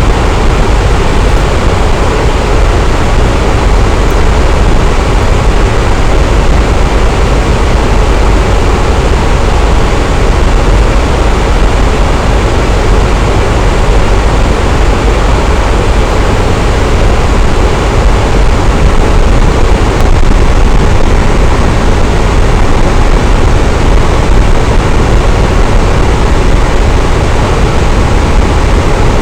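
Electric fan running steadily: a constant, even whoosh of moving air with a low rumble beneath.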